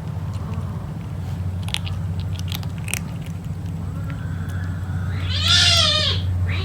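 Kitten eating, with a few sharp chewing clicks, then one loud meow about five seconds in, over a steady low hum.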